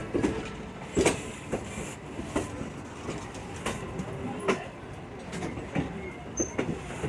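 Railroad passenger car rolling along the track: a steady rumble with irregular sharp clacks and knocks from the wheels on the rails, and a couple of brief high squeaks a little past six seconds in.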